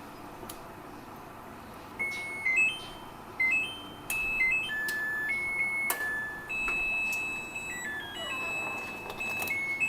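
An electronic beeper plays a simple tune of steady high tones stepping up and down in pitch. It starts about two seconds in and runs on, with a few sharp clicks along the way.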